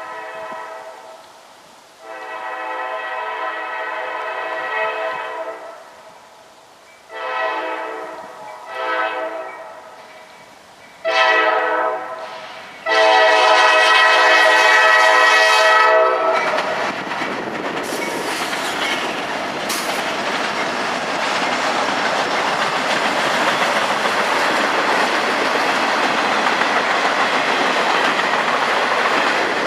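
Diesel freight locomotive's multi-chime air horn sounding a series of long and short blasts, the last one long. Then the train passes close by: a loud, steady rush of engine, wheel and rail noise with clickety-clack.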